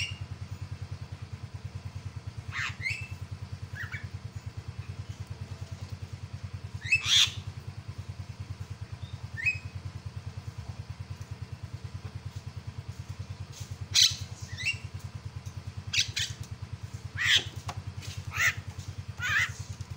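Javan myna (jalak kebo) giving short, harsh squawking calls at irregular intervals, most thickly in the second half, over a steady low throbbing hum.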